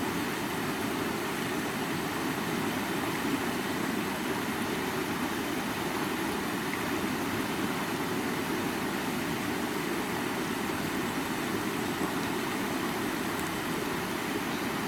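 River water flowing, a steady rushing that stays constant throughout.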